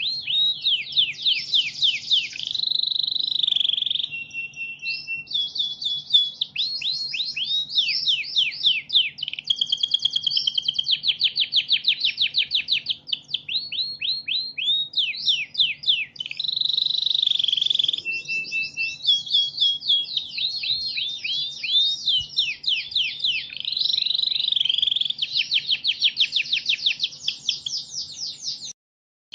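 Recorded songbird song played back without a break: rapid runs of sharp, high chirps sweeping downward, over a faint steady hum. It cuts out for a moment near the end.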